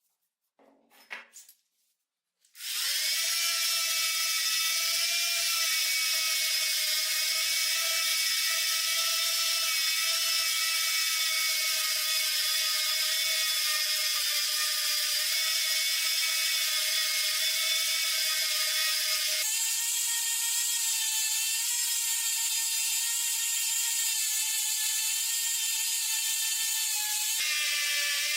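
A few light clicks, then a small electric power tool switches on about two and a half seconds in and runs with a steady high-pitched whine. Its pitch jumps higher about 19 seconds in and drops back about a second before the end.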